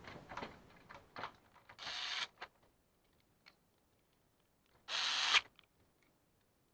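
Two short runs of a cordless electric screwdriver driving screws while a printer's document-feeder gearbox is put back together, one about two seconds in and a louder one about five seconds in, each lasting about half a second. Small clicks of plastic parts being handled come before them.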